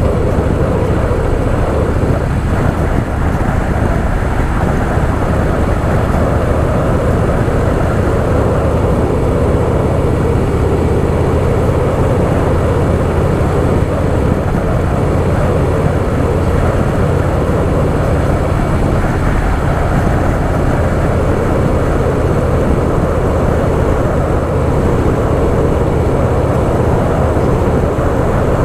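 Harley-Davidson Softail Fat Boy's air-cooled V-twin engine running steadily while the motorcycle is ridden at cruising speed.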